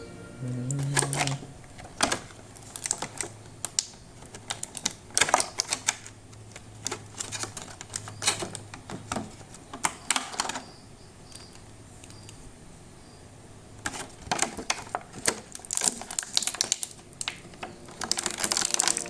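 Plastic packaging of an action figure being opened and handled: irregular clicks and crackles of the plastic tray and pieces, in bursts, with a quieter pause about two-thirds of the way through.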